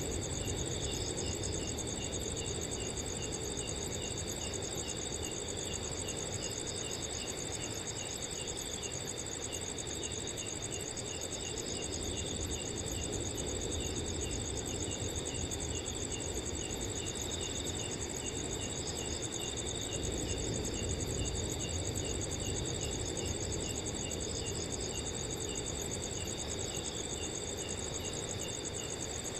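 Several crickets calling together at night: steady high trills layered with one cricket's evenly repeated chirps, over a low, gentle wind noise.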